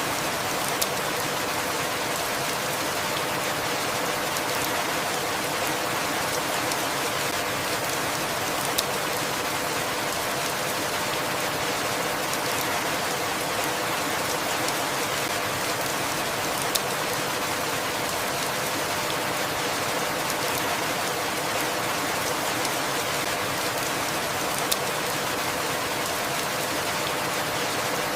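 Steady rainfall, an even hiss of falling rain with no change in strength. A few faint sharp drip ticks stand out, evenly spaced about every eight seconds.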